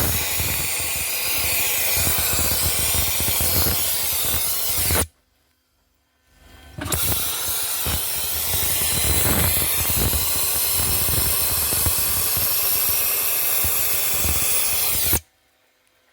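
Dry ice blaster nozzle blasting with a loud, steady hiss of compressed air and ice, in two long blasts. The first stops abruptly about five seconds in. The second starts again a second or so later and cuts off suddenly near the end.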